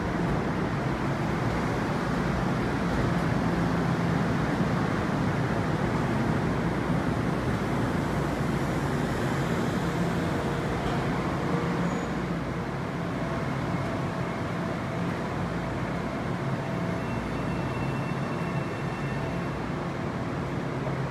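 Metro-North M7A electric multiple-unit commuter train departing, a steady rumble of its cars rolling past that eases slightly as the train moves away.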